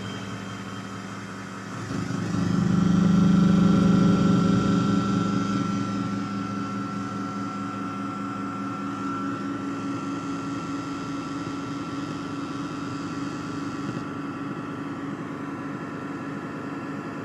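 Analog synthesizer drone fed through delay and echo effects. It swells loudly about two seconds in, then settles into a steady low hum with a thin high tone held above it.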